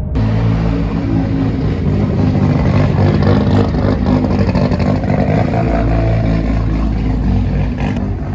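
A car engine and exhaust running loudly, starting abruptly, with a rough, noisy tone.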